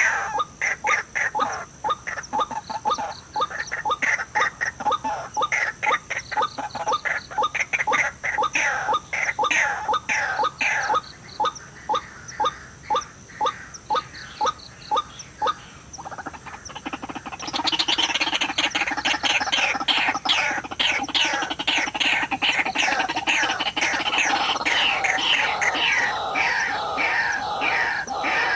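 White-breasted waterhen calls: a rapid run of short notes, each falling in pitch, several a second. About 17 seconds in, the calling grows denser and louder.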